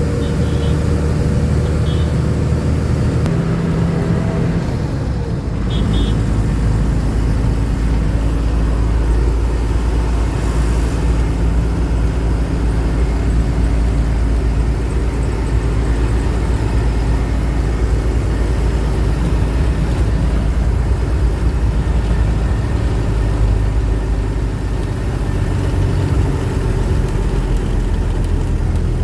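Truck engine running steadily under way, its low drone shifting in pitch around four to five seconds in, with a few short high chirps in the first six seconds.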